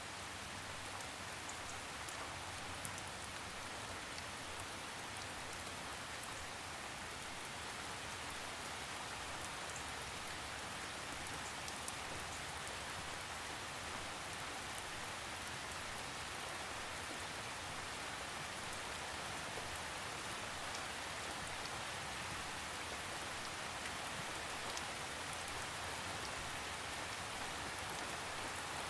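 Steady rain falling, a continuous even hiss with scattered individual drops ticking on a surface, and no thunder.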